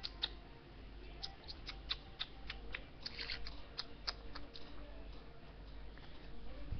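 Budgerigar giving a string of short, high squeaky chirps and clicks, irregular, with a quick cluster about three seconds in.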